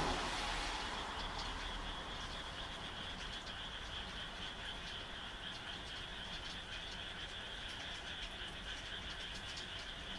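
Frogs croaking in a steady chorus, with many short, quick calls over a continuous high-pitched trill. A louder rushing noise fades away over the first second or two.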